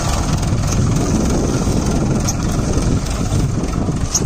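Swaraj 744 FE tractor's diesel engine running steadily with a dense low rumble, working against a fully loaded sugarcane trolley that has it stuck.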